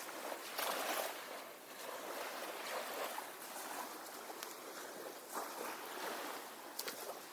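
Small waves washing and lapping on the beach, a steady wash that swells and eases every second or two, with a few faint clicks.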